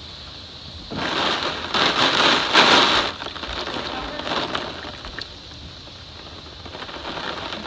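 Hurricane-force wind gust driving rain and spray. It surges about a second in, peaks for about two seconds, then eases to a steady rush with scattered drops hitting.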